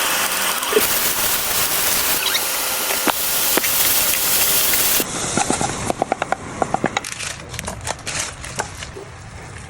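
Food frying in a pan: a steady loud sizzle, then after a cut about five seconds in, a quieter sizzle with many sharp crackles and pops.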